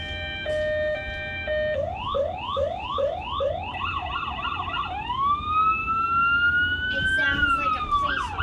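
Electronic toy siren from a 2020 Hess toy ambulance, cycling through patterns: a two-tone hi-lo, then repeated rising whoops, a fast warble, and a long rising wail that drops away near the end.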